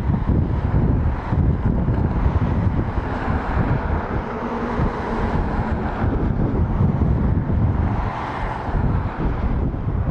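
Jet noise from a departing Boeing C-17A Globemaster III's four turbofan engines, a rushing roar that swells through the middle and eases near the end. Heavy wind buffeting on the microphone covers it with a low rumble.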